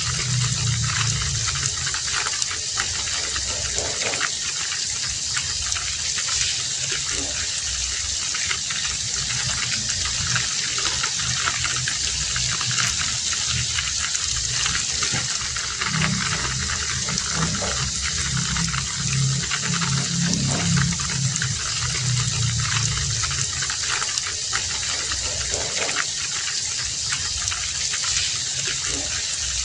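Heavy rain falling steadily, with a deeper rush of water that swells and fades every few seconds.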